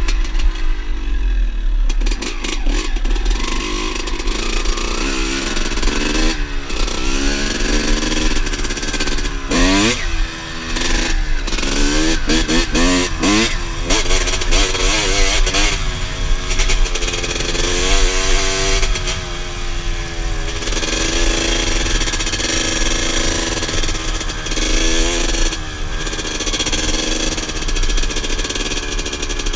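Motorcycle engine revving, its pitch climbing and dropping in repeated quick blips, busiest in the middle, then holding a steadier note toward the end.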